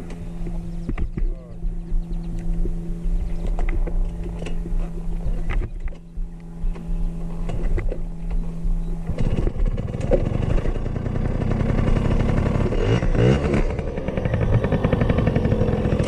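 Small dirt bike engine running with a steady hum, then about nine seconds in it gets much louder, its revs rising and falling.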